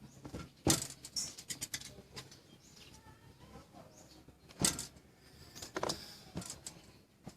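A series of sharp, irregular clicks and knocks, the loudest about a second in and again near five seconds in.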